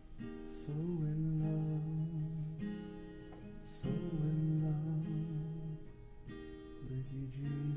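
Acoustic guitar strumming sustained chords of a slow worship song, the chord changing every second or two.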